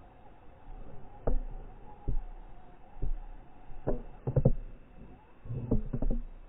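Scale RC crawler trucks driving over rough ground: a faint motor whine and low rumble under a series of sharp knocks and clunks, single ones at first, then quick clusters near the middle and the end.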